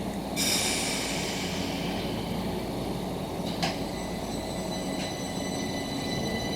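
Keihan Keishin Line electric train rumbling at close range. About half a second in there is a sudden hiss of released air that fades over a couple of seconds, then a single sharp click near the middle, and a steady high-pitched whine holds on to the end.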